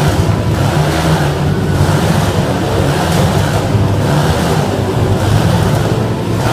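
Motorcycle engines running continuously and loudly, with a rapid low pulsing under a rushing noise.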